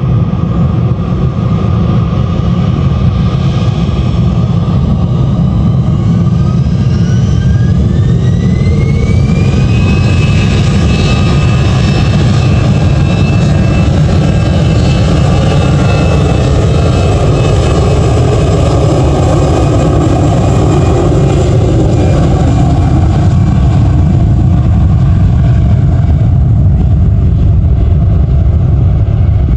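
Jet airliner's engines spooling up for takeoff: a whine rises over a few seconds, about a quarter of the way in, then holds steady over a loud, constant rumble.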